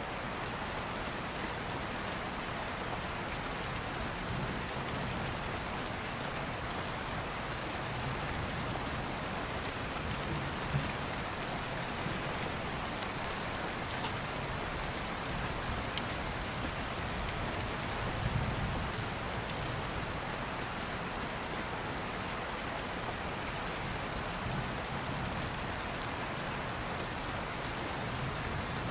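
Steady rain falling, with a few sharp crackles from an open wood fire and a low rumble of distant thunder about two-thirds of the way in.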